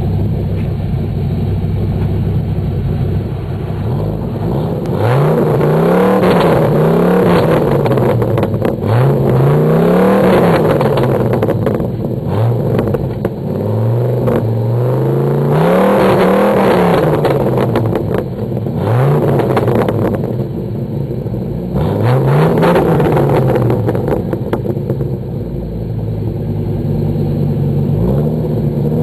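Dodge Ram SRT-10 'Viper truck' V10 engine through a Magnaflow exhaust with the rear catalytic converters deleted, idling and then blipped about ten times. Each rev rises and falls back to idle.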